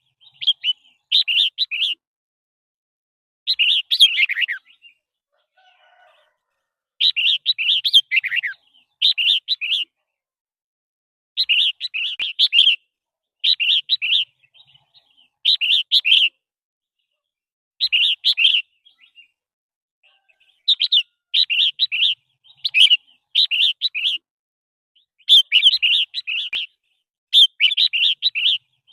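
Red-whiskered bulbul singing: short, bright warbling phrases repeated every second or two, with brief pauses between groups of phrases.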